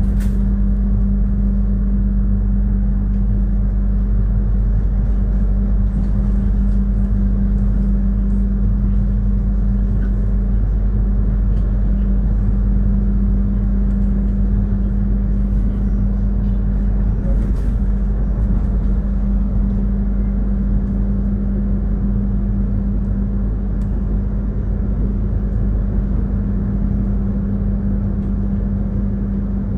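Steady running noise inside a moving Taksaka passenger train carriage: a constant low rumble from the wheels on the track, with a steady hum.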